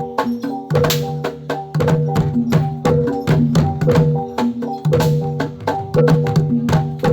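Javanese jathilan gamelan music: sharp drum and wooden strokes in a fast, repeating rhythm over ringing pitched metal notes that repeat in a short cycle.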